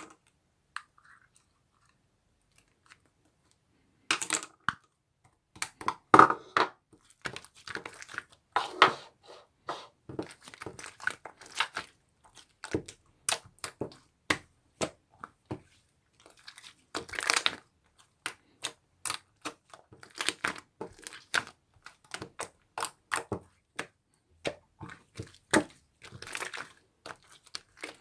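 Slime being pressed, stretched and squished by hand, giving a dense run of sharp clicking and crackling pops from trapped air. It starts about four seconds in, after a near-quiet opening.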